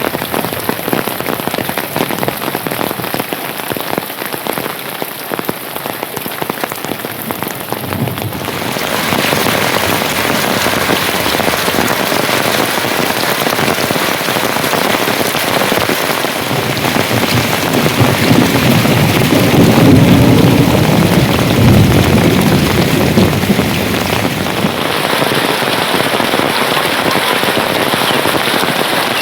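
Heavy rain falling steadily, a dense hiss of drops that grows louder about a third of the way in, with a deeper, louder rush about two-thirds of the way through.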